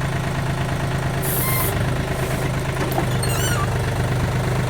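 A backhoe's diesel engine running steadily while the bucket is worked. A short hiss comes about a second in, and a few brief high squeaks come a little after the midpoint.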